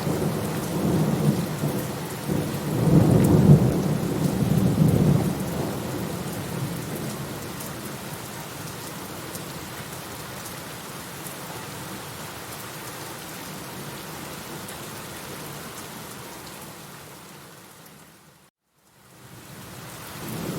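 Steady rain with a low rolling rumble of thunder that swells a few seconds in and dies away by about six seconds. The rain goes on evenly, fades out briefly near the end and comes back.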